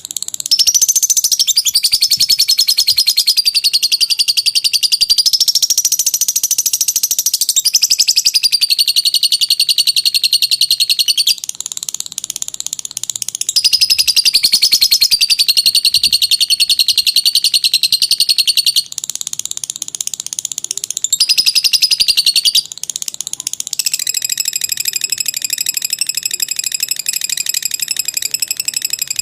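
Lovebird's long 'ngekek' chatter: a rapid, high-pitched chattering trill whose pitch wavers up and down, going on for many seconds at a time and dipping quieter a few times.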